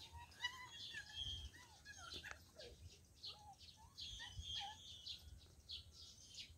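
Faint chirps and twitters of small birds, short scattered calls with no single pattern, over low rumbles from the phone being moved and handled.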